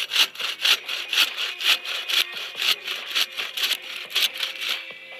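Hand saw cutting through wood in steady back-and-forth strokes, about two a second, stopping shortly before the end.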